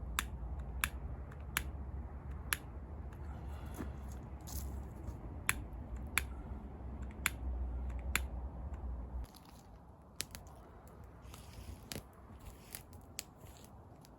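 Wood campfire crackling, with sharp irregular pops and snaps about every half second to a second, over a low rumble that cuts off suddenly about nine seconds in.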